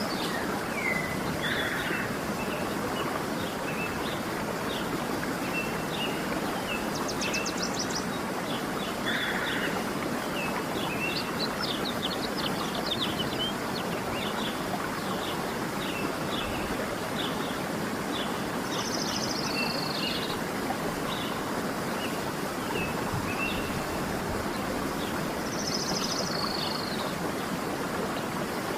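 Waterfall rushing steadily, with birds chirping over it: many short high chirps throughout, a few quick trills, and a two-part call heard twice in the second half.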